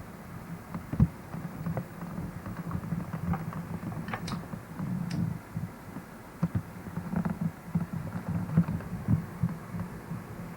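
Low, uneven hum with scattered clicks and knocks.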